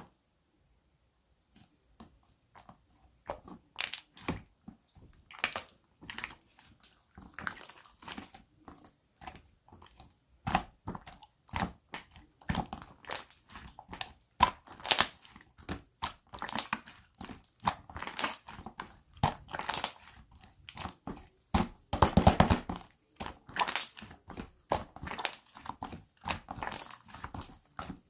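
Hands squishing and pressing a clay slime, giving sticky crackles and pops in irregular clusters that start about two seconds in.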